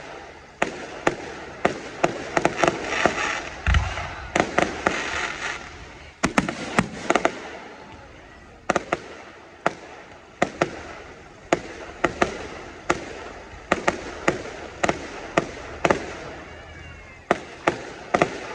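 Fireworks display: aerial shells bursting one after another in sharp bangs, about one or two a second. A few seconds in there is a denser stretch of crackle among the bangs.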